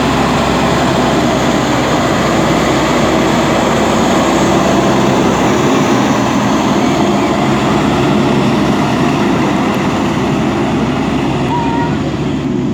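Steady motor hum: a constant low pitch under a dense rushing noise, holding level with no revving.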